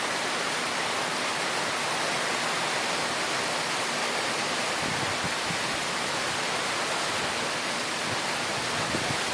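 Heavy rain pouring down steadily in sheets during a thunderstorm, an even rushing hiss of downpour with wind.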